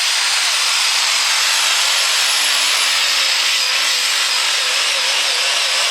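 Super stock diesel 4x4 pulling truck's engine running at full throttle during a pull: a loud, steady engine sound with a thin, high whistle over it.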